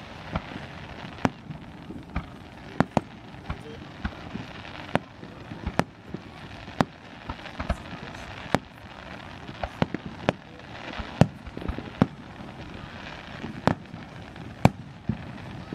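Aerial firework shells bursting in a display: a string of sharp bangs at irregular intervals, about one or two a second, over a steady background hiss, the loudest bangs coming about eleven seconds in and near the end.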